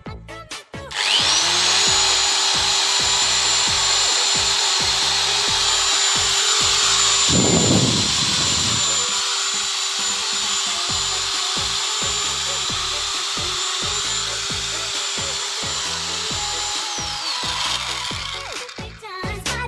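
Small electric cutter/grinder motor switched on, spinning up to a steady high whine about a second in, running freely for about sixteen seconds with a brief rougher noise around eight seconds in, then winding down near the end.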